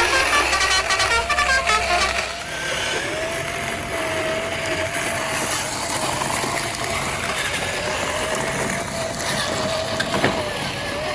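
Music for about the first two seconds, then a small electric motor whining steadily over a rattling hiss, as from a plastic RC truck.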